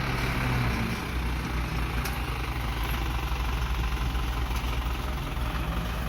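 Heavy diesel engine running steadily, a low, even, pulsing rumble.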